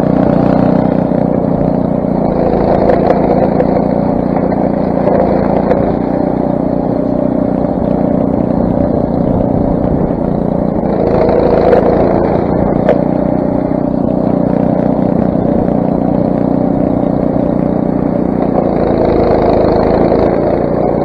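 Craftsman single-stage snowblower's 6 hp Briggs & Stratton engine running steadily.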